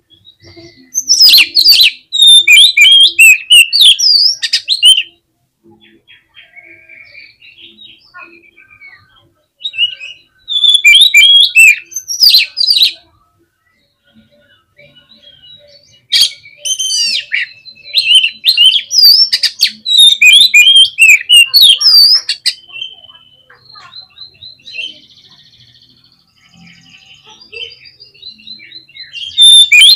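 Oriental magpie-robin (kacer) singing a loud, rapid, varied song of whistles and trills, in bursts of several seconds separated by quieter short phrases.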